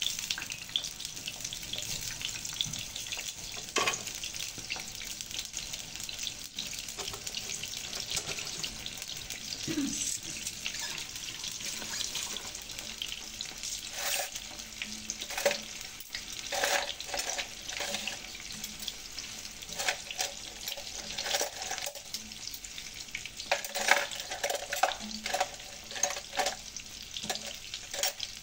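Food sizzling in a hot pan, with a cooking utensil repeatedly scraping and clinking against the pan as it is stirred.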